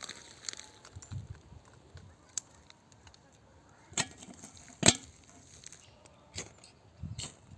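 A scattered series of sharp knocks and clicks, the loudest about five seconds in.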